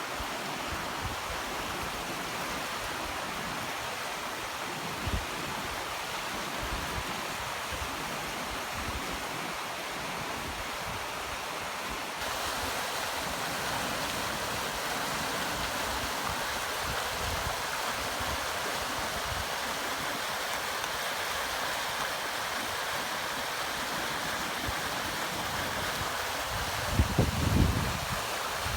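A river running: a steady rush of flowing water, stepping up slightly about halfway through. A few low thumps on the microphone near the end.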